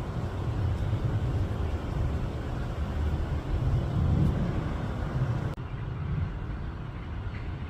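Wind buffeting the microphone: a low rumbling rush that swells and eases in gusts. About five and a half seconds in, it cuts abruptly to a duller, quieter wind sound.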